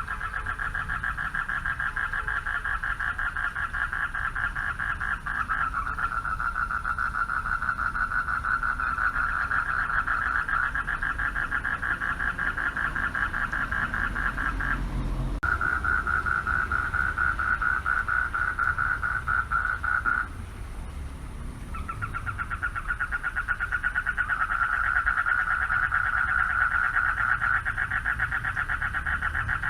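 Chorus of male frogs calling for mates from a pond: a dense, rapidly pulsing trill that drops out briefly about halfway through and again for a second or two at about two-thirds, then resumes.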